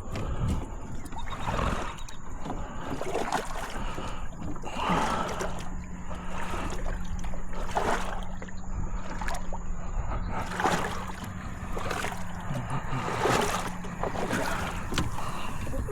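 Water splashing and sloshing in the shallows around a capsized kayak, in repeated surges about every second or so, with a steady low hum underneath from about five seconds in until near the end.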